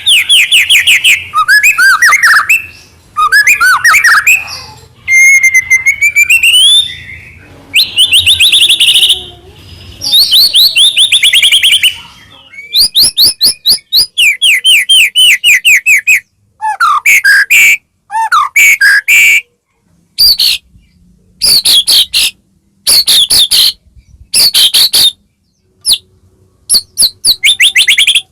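White-rumped shama (murai batu) singing loudly in quick, varied phrases: rapid runs of sharp chirps and clear whistles, some rising, with brief pauses between bursts in the later part.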